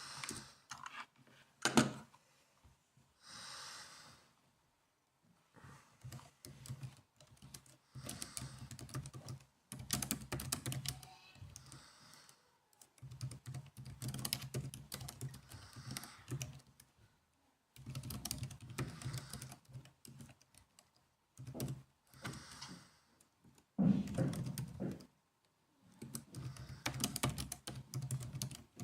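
Typing on a laptop keyboard: runs of rapid key clicks lasting a few seconds, with short pauses between them and an occasional harder single key strike.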